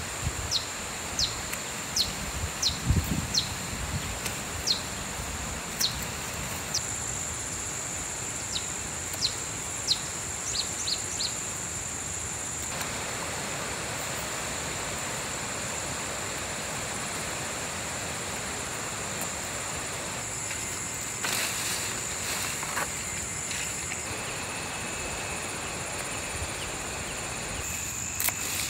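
Steady hiss of rain with a high, steady insect drone. A bird repeats short falling chirps about once a second through the first twelve seconds, among a few low thumps.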